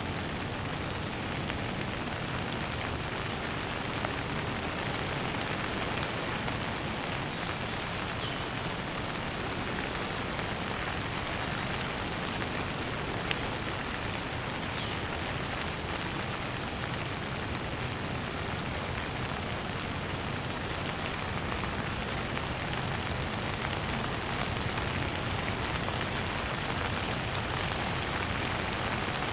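Steady, gentle rain falling, an even dense patter without a break.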